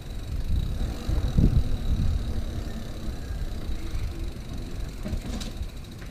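Mountain bike rolling over a dirt trail: a rough low rumble of tyres and rattling bike with wind on the microphone, swelling about a second and a half in.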